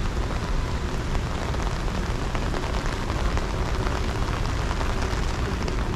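Steady rain falling on an umbrella held overhead and on the wet pavement: an even hiss with scattered faint drop ticks, the rain getting heavier.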